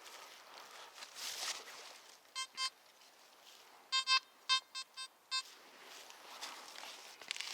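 Nokta Makro Simplex Plus metal detector beeping over a buried target: two short beeps a little over two seconds in, then six more in a quick, irregular run, all at the same pitch. The uneven response goes with a target ID that keeps changing.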